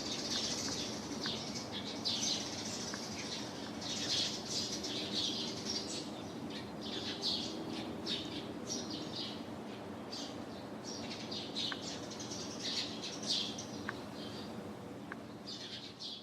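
Small birds chirping over and over in quick, short calls, with a steady low hum underneath.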